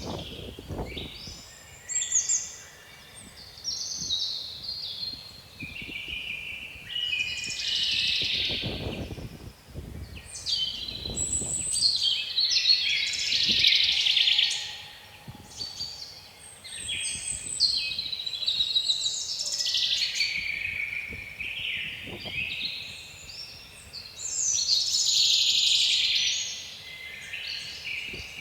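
Songbirds singing almost without pause, one varied chirping phrase after another. A few gusts of wind rumble on the microphone, near the start, around a third of the way in and again past the two-thirds mark.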